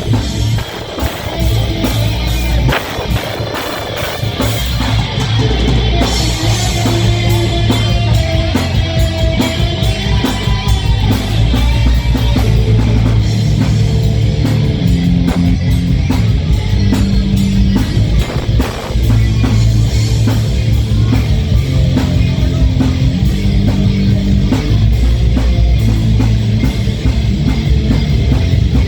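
Heavy metal band playing live: distorted electric guitars, bass and drum kit. The drums keep a steady fast beat, and the music builds to full loudness in the first few seconds.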